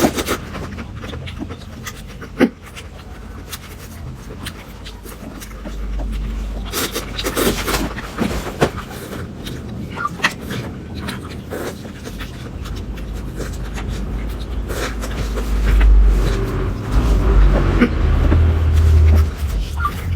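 Close-miked eating sounds of a person chewing and slurping a meal of seafood and Korean instant noodles, with irregular sharp mouth clicks and a low rumble that grows louder in the last few seconds.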